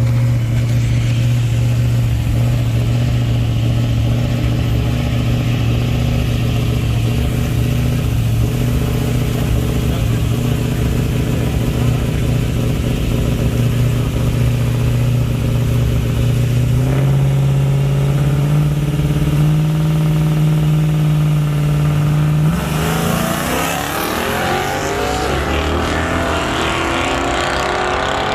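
Truck engine idling steadily, stepping up in pitch about two-thirds of the way through, then revving hard and accelerating with a climbing pitch near the end.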